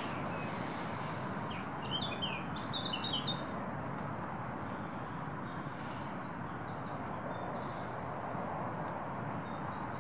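Small songbirds chirping in short runs of quick high notes, about two seconds in and again in the second half, over a steady outdoor background hiss.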